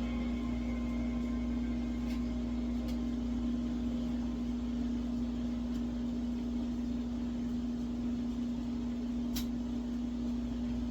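Steady machine hum with one strong low tone under a low rumble, with a few faint ticks, about two and three seconds in and again near the end.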